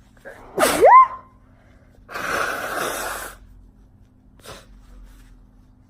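A young woman sneezing: one loud sneeze with a squeaky voiced pitch that swoops up at the end. About a second later comes a long breathy rush of air lasting over a second, and a short sniff follows near the end.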